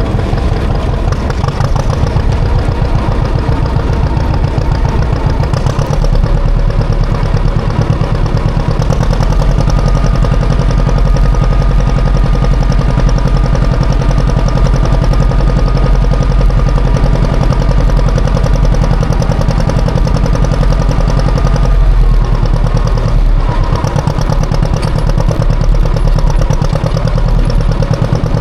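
Classic John Deere tractor engine running steadily under load while plowing snow, its note shifting about six seconds in and again a little past twenty seconds.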